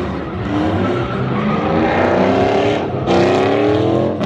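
Truck engine accelerating hard on a drag run, its pitch climbing steadily, dropping about three seconds in, then climbing again.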